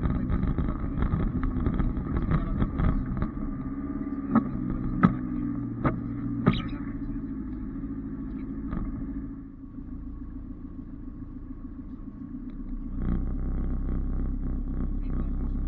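Off-road 4x4 engine running steadily at low revs, with four sharp knocks about four to six and a half seconds in. It goes quieter for a few seconds from about nine seconds in, then picks up again near the end.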